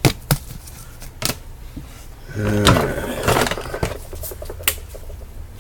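Hands handling trading cards and their plastic holders and packaging: a few sharp taps and clicks, then about a second and a half of rustling and handling noise midway, opening with a short low sound that falls in pitch.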